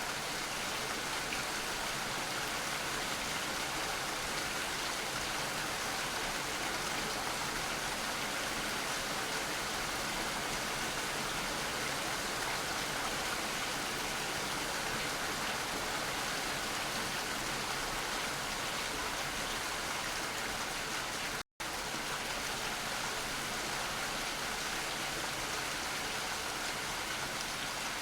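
Steady rain, an even continuous hiss, that cuts out for an instant about three-quarters of the way through.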